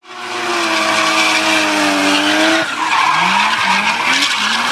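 Car engine running at a held speed, then revved in a quick series of short rising blips.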